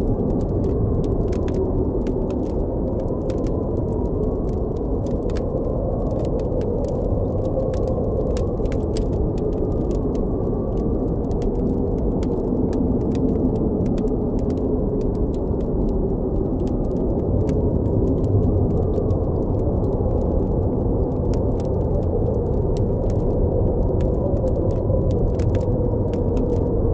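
Blizzard wind blowing steadily, with faint whistling tones that waver up and down, over scattered sharp crackles and pops of a campfire.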